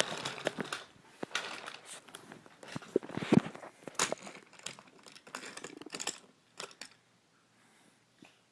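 Toy trains being moved by hand: a run of small clicks, knocks and rustling that dies away about seven seconds in.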